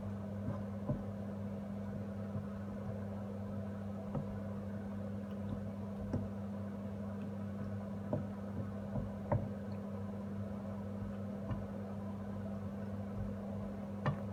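Thick tomato-based sauce simmering in a pan, popping softly now and then over a steady low hum.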